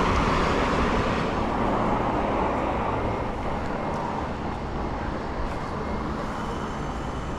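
Road traffic: a motor vehicle passing close by, its noise fading over the first few seconds, then steady traffic noise.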